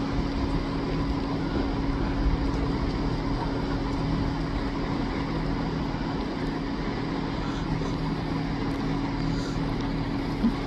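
InterCity-liveried electric passenger train drawing slowly into the platform: a steady hum with a low rumble underneath.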